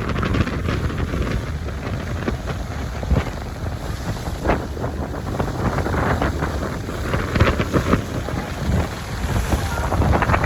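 Wind buffeting the microphone on a moving river tour boat, over a steady low rumble, with gusts growing stronger near the end.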